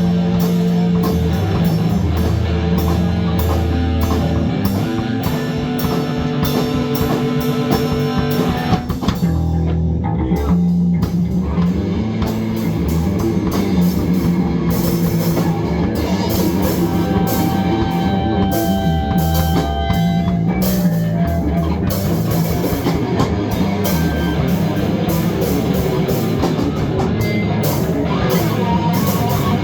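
Rock music played on guitar and drum kit, with a steady beat of drum and cymbal hits and a short break in the cymbals about nine seconds in.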